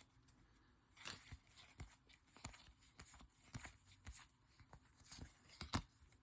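Faint rustling and light clicks of a pack of baseball trading cards being opened and handled, with a sharper click near the end.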